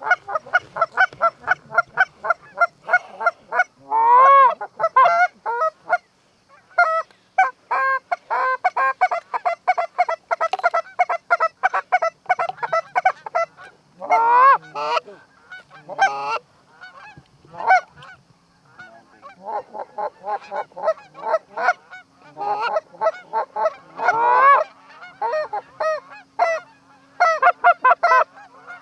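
Canada goose calling: rapid runs of short honks and clucks, about four or five a second, broken a few times by longer, wavering honks.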